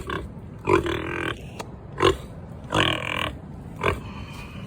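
Pig grunting repeatedly, with short grunts every half second to a second and two longer, drawn-out calls, one about a second in and one near three seconds.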